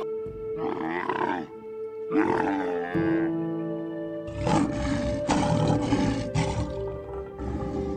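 A camel calling twice in the first three seconds, then a lion roaring in a series of loud bursts from about four seconds in, over background music with steady held notes.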